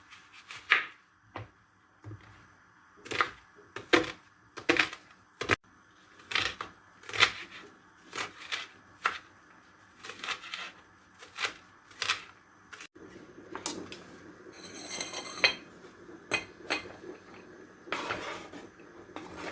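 Kitchen knife chopping onion on a cutting board: a run of separate knocks, uneven, about one or two a second.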